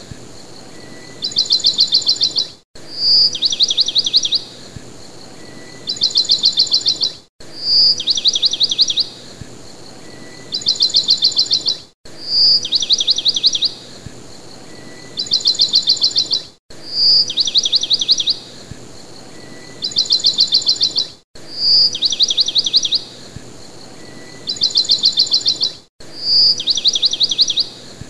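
Looped bird calls: a high chirp, then a rapid trill of about eight notes and a second trill a second or so later. The pattern repeats about every four and a half seconds with a brief dropout between repeats, over a steady hiss.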